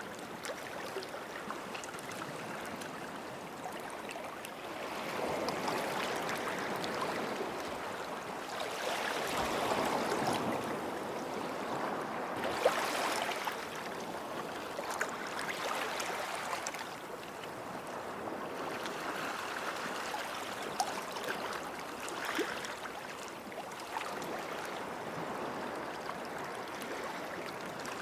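Small sea waves washing onto the shore, swelling and easing back every few seconds, with small sharp ticks scattered through.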